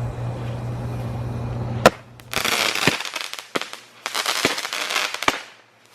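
Phantom 'Toot and Twirl' consumer firework going off: a sharp bang about two seconds in, then bursts of hissing and crackling with several sharp pops, dying away near the end.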